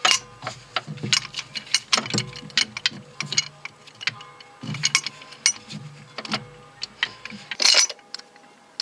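Hand tools working on metal car parts: irregular sharp clicks and light knocks, with a short cluster of rapid clicks near the end, like a ratchet wrench turning bolts.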